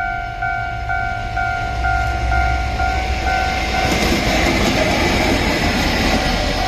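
Railway level-crossing warning signal sounding a two-tone ding about twice a second. From about four seconds in, a passing freight train's wheel and rail noise swells and drowns it out.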